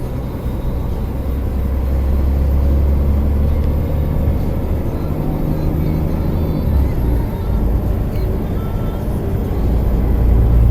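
Steady low rumble of a pickup truck heard from inside the cab.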